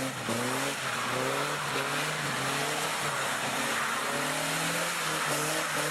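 A 1981 Nissan 200SX, with its rear differential welded for drifting, being driven hard: the engine revs up and down again and again. Steady tyre noise runs underneath.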